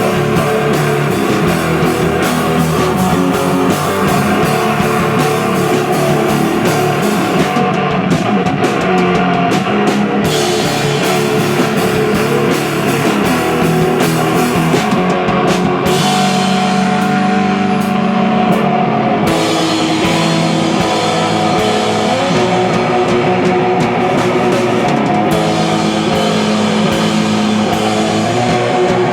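Live rock band playing loud: distorted electric guitars over a drum kit, dense and steady, with the cymbals dropping out briefly twice.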